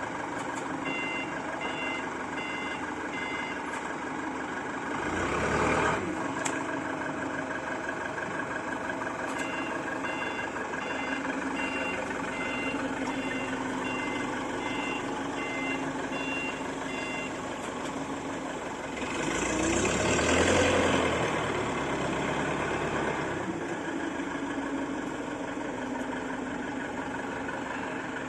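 A vehicle's reversing alarm beeping in two runs of evenly spaced beeps, about two to three a second, over a steadily running engine. The engine grows louder twice, briefly about five seconds in and for a few seconds around twenty seconds in.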